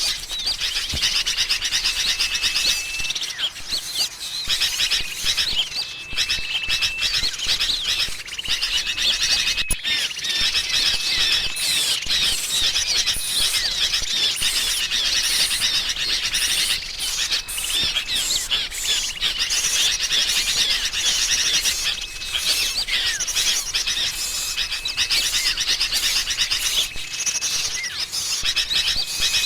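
Dense, nonstop chattering of agitated sooty-headed bulbuls mixed with small songbirds' chirps, a bird-lure recording meant to draw small birds in. Short level whistles recur every second or two through the chatter.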